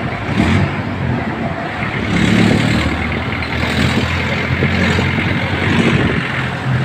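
Road traffic: a motor vehicle's engine running close by over tyre and wind noise, getting louder about two seconds in.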